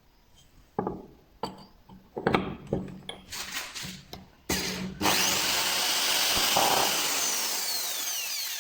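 Power drill with a small bit boring out a broken bolt in a starter motor's brush holder cup. A few knocks of handling come first, then a short burst about four and a half seconds in, then steady drilling that stops suddenly at the end.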